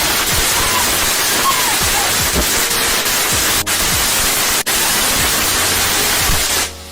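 Firework going off indoors: a loud, continuous rushing hiss of burning sparks, with two brief drop-outs in the middle and an abrupt cut-off near the end.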